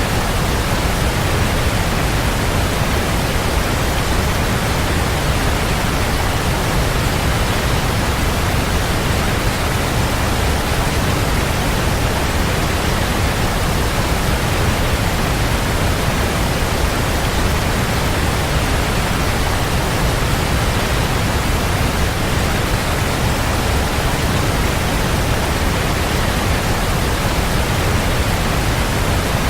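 Waterfall: steady, unbroken rush of falling water, an even full-range hiss with a strong low rumble.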